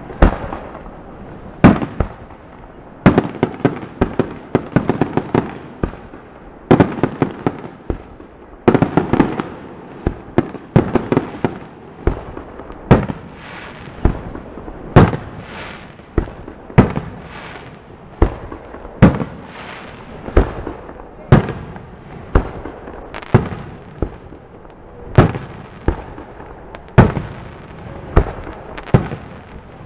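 Aerial firework shells bursting one after another, each sharp bang trailing off in an echo. In the first half the bangs come in quick clusters; later they settle to about one every second.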